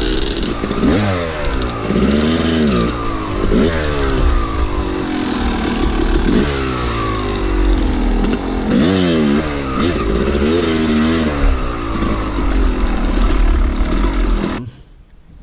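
A two-stroke dirt bike engine revving up and down over and over, its pitch rising and falling every second or so as the rider works the throttle on a trail. The engine sound drops away sharply near the end.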